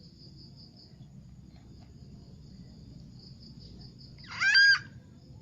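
Crickets chirping steadily in a fast pulsing trill. About four and a half seconds in comes a brief, loud, high-pitched squeal.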